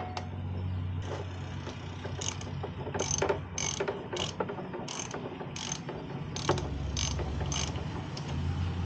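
Hand ratchet with a 10 mm socket clicking in short strokes, about two a second, as it turns the oil drain fitting on a zero-turn mower's engine to loosen it.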